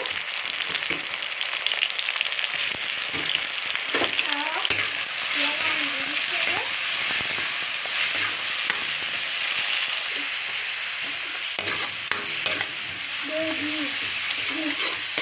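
Onion, ginger, garlic and tomato sizzling in hot oil in a pan while being stirred, with a few sharp clicks along the way.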